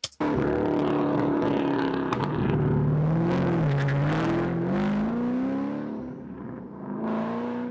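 A custom American car's engine running and revving, its pitch dropping and climbing several times, then easing off and picking up again near the end.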